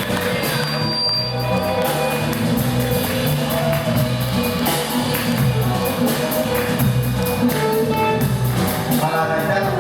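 Live band playing a flamenco piece with a steady beat and a moving bass line.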